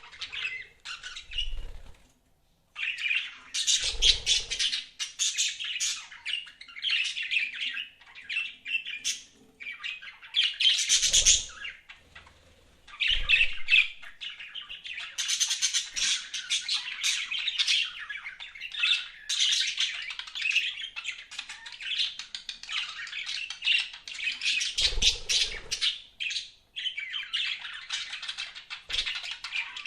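Budgerigars chirping and chattering almost without pause, a fast jumble of high chirps and squawks, broken by short gaps about two seconds and twelve seconds in, with a few soft low thumps.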